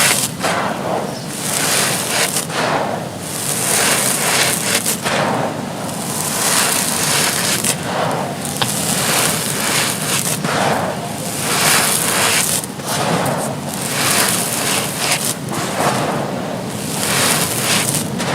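Soft, dry charcoal-ash bricks being crumbled, a gritty, crispy crunching that swells and eases about once a second.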